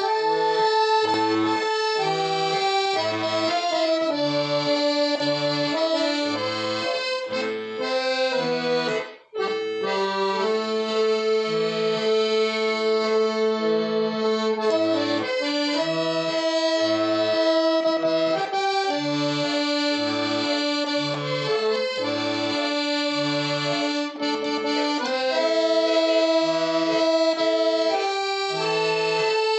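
Accordion playing a slow melody in sustained notes over a steady bass-and-chord accompaniment, with a brief break about nine seconds in.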